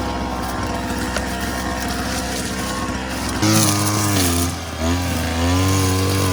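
Trials dirt bike engine running under throttle. About halfway through it gets louder and its pitch rises and falls as the throttle is worked.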